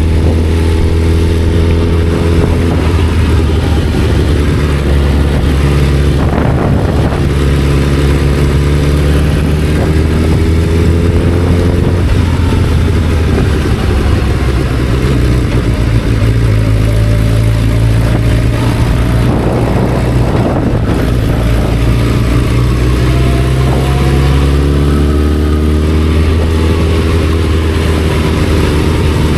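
Motorcycle engine running under way, its pitch climbing slowly several times as it pulls and dropping back in between.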